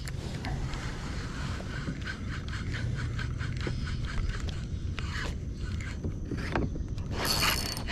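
Spinning reel being wound in during a jerkbait retrieve: quick repeated scraping strokes, densest from about two to five seconds in, over a steady low rumble.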